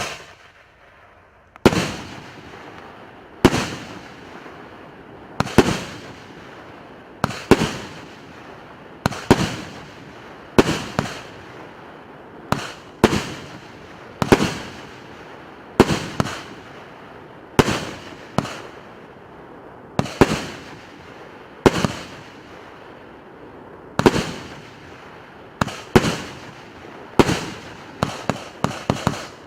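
A consumer fireworks cake (a 50-shot, 1.2-inch battery) firing shot after shot, about one every two seconds. Each launch is a sharp bang followed by a fading fizz and crackle. The shots come faster near the end.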